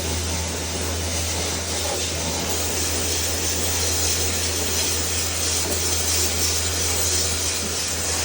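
A cleaning machine running steadily: a constant low hum under a strong, even hiss.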